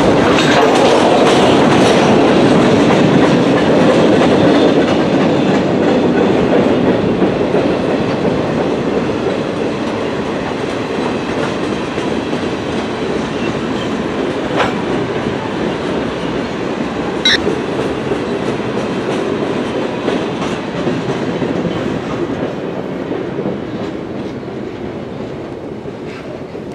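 Train rolling past, its wheels clicking over the rail joints, the sound fading steadily as it moves away.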